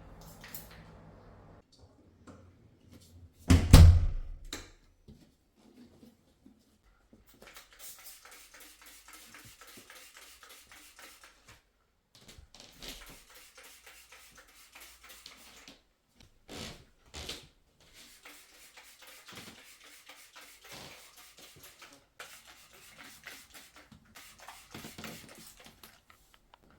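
One heavy thump about three and a half seconds in, then faint rustling and small scattered knocks of things being handled.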